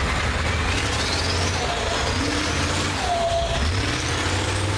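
Vehicle engines running with a steady low rumble, with high whistling tones rising in pitch over it several times.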